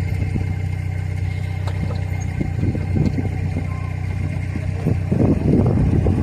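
A motor vehicle's engine running with a steady low hum, with irregular knocks and rattles that grow louder near the end.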